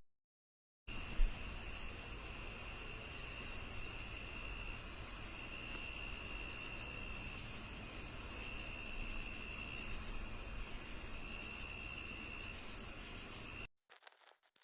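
Night insect chorus of crickets: a steady high trill with a chirp repeating about twice a second. It starts suddenly about a second in and cuts off abruptly near the end, with a brief low thump just after it begins.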